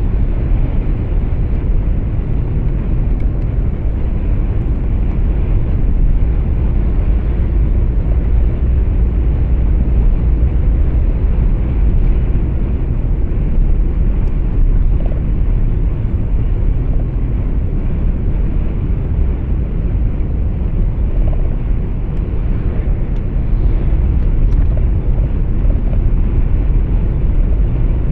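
Truck cab interior noise: a steady low rumble of engine and road noise while driving.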